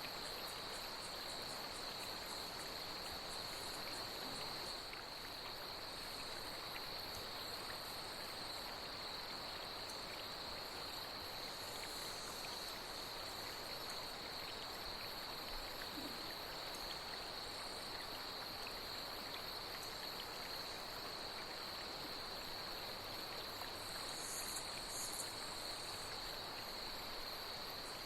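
A steady, high-pitched chorus of night insects over the even rush of a flowing stream. Near the end two brief bursts of louder, higher chirping stand out.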